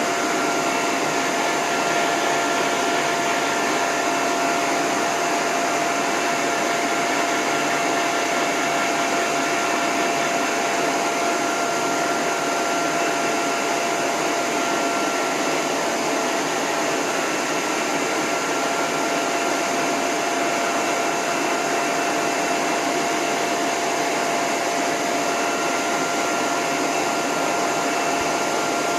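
Dog-grooming hose dryer blowing steadily, run on a low setting with its end nozzle off: an even rush of air with a high whine held on one pitch.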